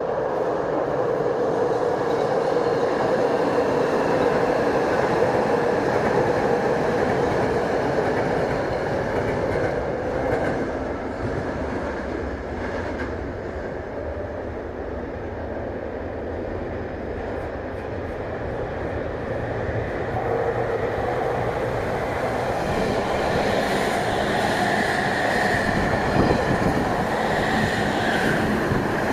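Electric commuter trains, a Tokyo Metro 9000 series and a Tokyu 5050 series, running along the line in opposite directions. The rumble and clatter of the wheels on the rails carry a steady tone in the first ten seconds, ease off in the middle and build again, with a high tone in the last few seconds.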